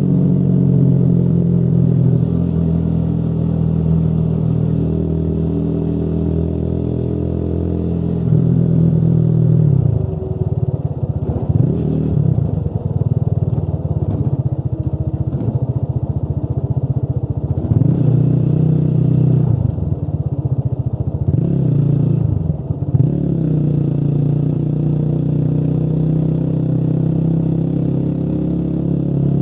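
Motorcycle engine running while riding: a steady drone at cruising speed, then from about ten seconds in the pitch rises and falls several times as the throttle is opened and closed, before settling back into a steady drone near the end.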